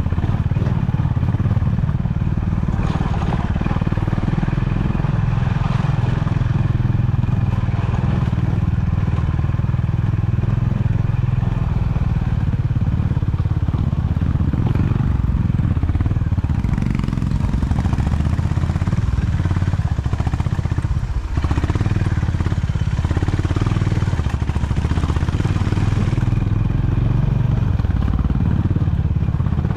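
Honda CB350 motorcycle's single-cylinder engine running steadily while being ridden, easing off briefly about two-thirds of the way in.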